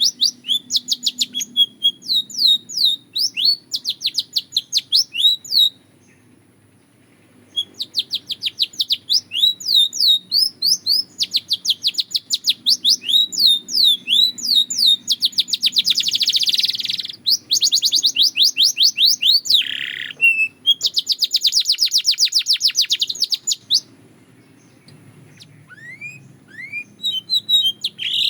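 Belgian canary singing: fast trills of short repeated notes in phrases several seconds long. The song breaks off briefly about a quarter of the way in and again near the end.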